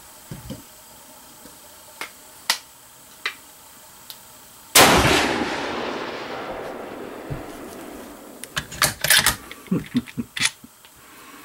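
A single shot from a bolt-action hunting rifle about five seconds in, loud and echoing away over a few seconds. Near the end comes a quick run of sharp metallic clicks as the bolt is worked.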